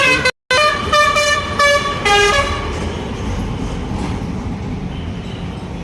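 Tractor horn sounded in a run of short honks of changing pitch over the first two and a half seconds, over the diesel engine running. After that the engine idles steadily.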